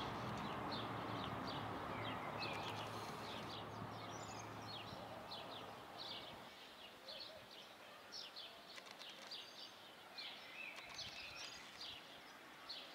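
Small birds chirping over and over in short high notes, over a steady low hum of background city noise that drops away about halfway through.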